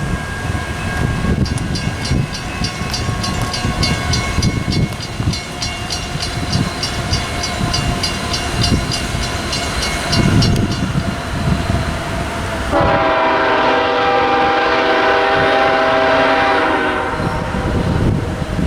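Diesel freight train running by with a steady low rumble, a bell ringing in a fast even rhythm for the first half, then one long multi-note horn blast of about four seconds starting about thirteen seconds in.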